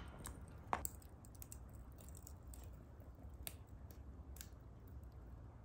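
Faint, sharp clicks and ticks at irregular intervals, one every second or so, over a low steady rumble.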